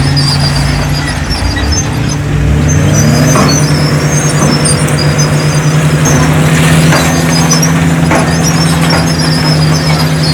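Diesel engine of heavy earthmoving machinery running loud and steady, revving up with a rising pitch about three seconds in. Occasional clanks and high-pitched squeaks run over it.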